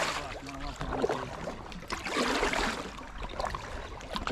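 Kayak paddle strokes swishing through the water, in swells of rushing noise about every two seconds.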